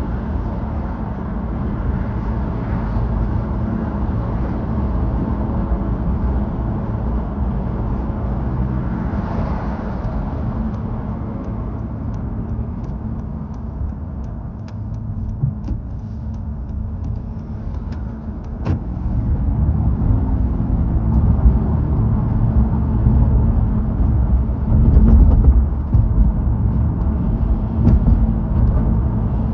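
Car road noise: a steady low rumble of engine and tyres that grows louder about two-thirds of the way through.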